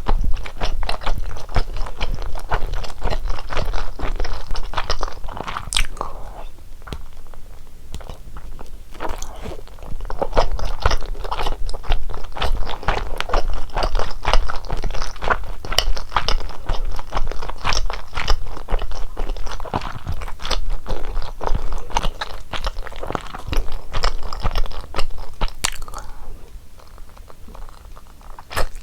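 Close-miked chewing and biting of fish cake from a hot fish cake soup, a dense run of quick wet clicks that eases off near the end.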